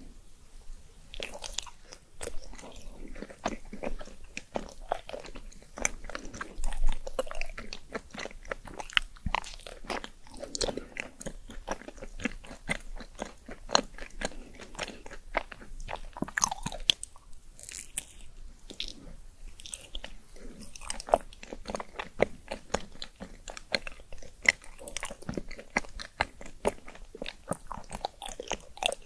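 Close-miked eating: continuous chewing and biting with many short, crisp crunches and smacking mouth sounds.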